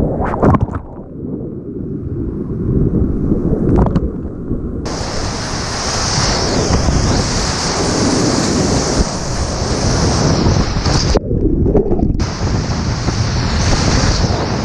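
Rushing whitewater during a kayak run, with wind buffeting the microphone. The sound goes dull twice, once early and once near the end.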